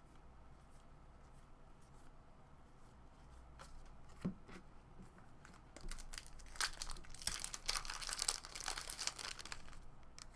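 Foil wrapper of a baseball card pack torn open and crinkled, a dense crackly burst over about three seconds after a few faint handling clicks.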